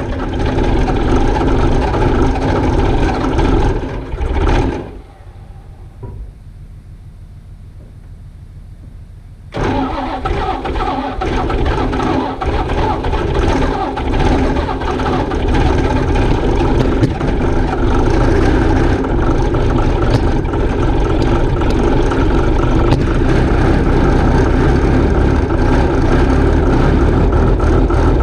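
Log loader's engine on a cold start: it runs, falls away about four and a half seconds in, then after a few quieter seconds fires up suddenly and keeps running, growing steadily louder.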